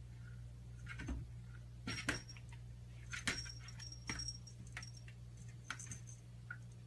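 Light metallic jingling and clinking, a handful of short bursts over several seconds, some with a brief high ring, over a steady low hum.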